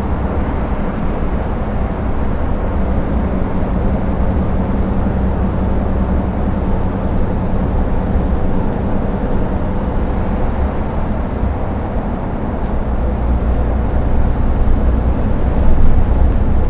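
Diesel engine and tyre rumble of an Iveco truck cruising on the motorway, heard from inside the cab as a steady drone that gets a little louder near the end.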